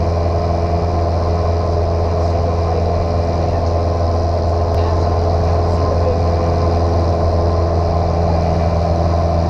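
Light airplane's piston engine and propeller droning steadily, with no change in pitch or level.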